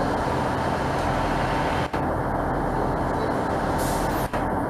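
A train's engine giving a loud, steady drone, with a short hiss of air about four seconds in and two momentary dropouts in the sound.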